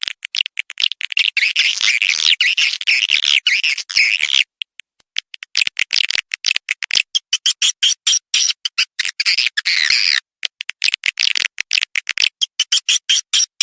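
Dense, rapid twittering chatter of swiftlets: a recorded lure call played to draw swiftlets into a nesting house. It breaks off briefly twice, about four and a half seconds in and again about ten seconds in.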